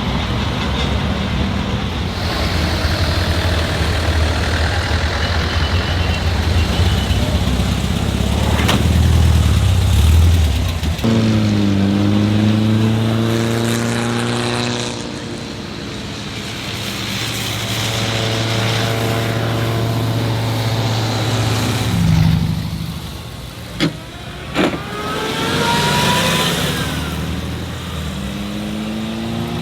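Old car engines running as they pass in a parade, with revs rising and falling several times. Two sharp pops come about two-thirds of the way through.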